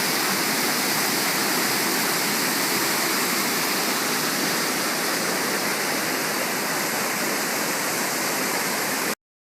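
Waterfall water rushing in a steady, even roar of noise that cuts off abruptly about nine seconds in.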